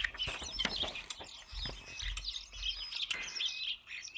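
European starling singing: a fast, unbroken jumble of wavering whistles, squeaks and clicks.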